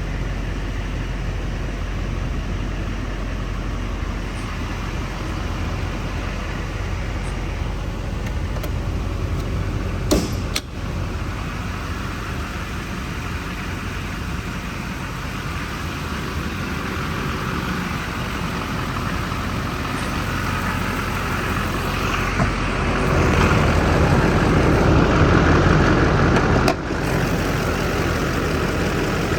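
Chevrolet 6.6L Duramax turbo diesel V8 running steadily, with a sharp click about ten seconds in. The engine grows louder and fuller near the end, then drops back suddenly.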